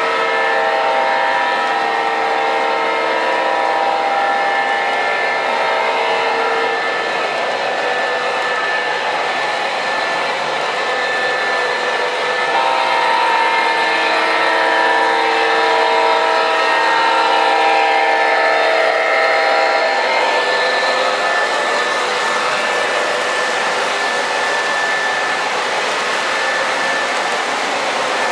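MTH Premier O-gauge ES44AC model diesel locomotive running with its onboard sound system: a steady diesel rumble and wheel noise, with the multi-tone air horn held for about six seconds at the start and again for about seven seconds from about twelve seconds in.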